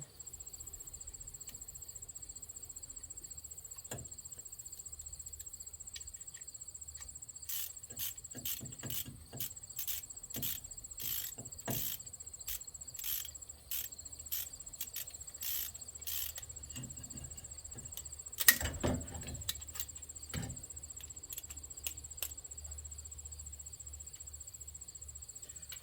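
Crickets chirping in a steady high drone, with a run of irregular sharp clicks and knocks from hand-tool work on the truck's front brake, the loudest a single sharp knock about two-thirds of the way through.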